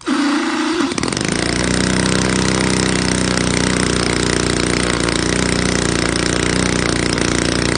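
Zenoah G62 two-stroke gasoline engine in an RC Corsair model coming to life. A different, higher note in the first second gives way to a steady run. It is the engine's first start since it was fitted with new piston rings.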